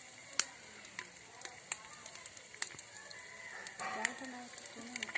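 Whole spices and green chillies sizzling in hot oil in a clay pot, a steady hiss broken by sharp crackling pops about once a second.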